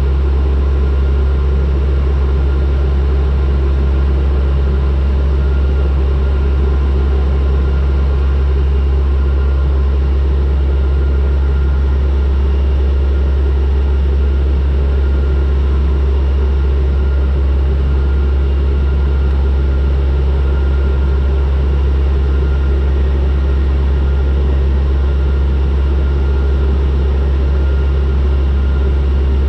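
Turboprop aircraft's engines and propellers running steadily in flight during the approach: a loud, unchanging low drone with a faint higher whine.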